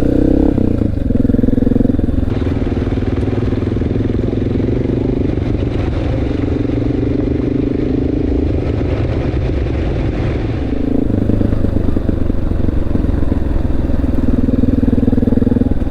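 Honda XR650L's single-cylinder four-stroke engine running as the motorcycle is ridden, steady throughout, a little quieter through the middle and louder again in the last few seconds.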